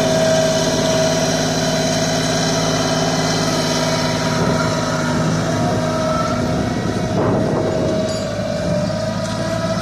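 Tractor engine running steadily, with a constant, unchanging note.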